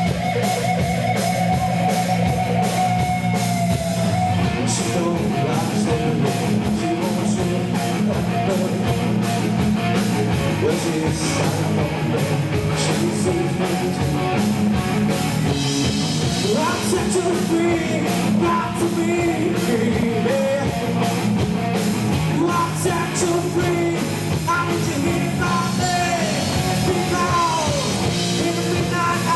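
Live rock band playing a loud, dense mix, with a long wavering held note in the first few seconds. The recording quality is poor.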